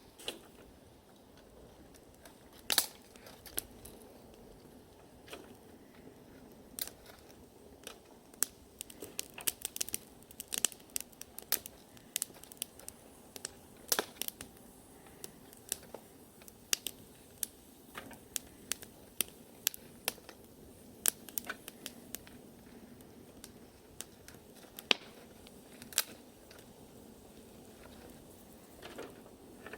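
Wood bonfire crackling, with irregular sharp pops and snaps, thickest in the middle.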